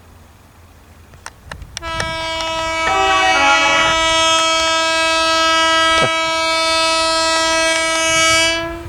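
Train horn sounding one long, steady warning blast of about seven seconds for the open level crossing, with a second tone overlapping it briefly near the start. It cuts off sharply.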